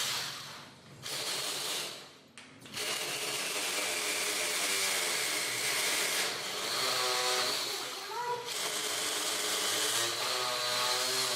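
A handheld electric power tool running steadily, a dense even whirring noise with a faint high whine. It starts about a second in, drops away briefly around two seconds, then runs on without a break.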